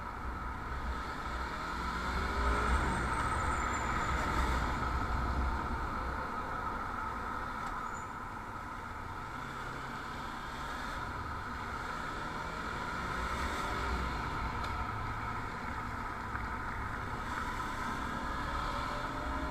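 Steady road-vehicle engine and road noise, with engine notes gliding up and down a few times.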